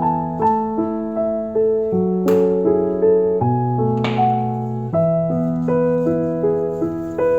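Background piano music: a gentle melody over sustained bass notes, with two brief soft swishes about two and four seconds in.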